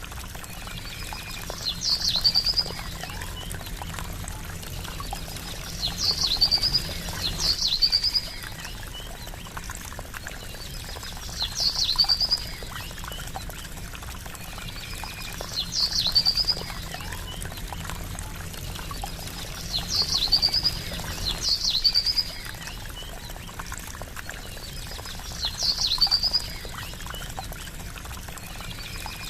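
Steady trickling water, with a short high bird call that comes every four seconds or so, sometimes twice in quick succession.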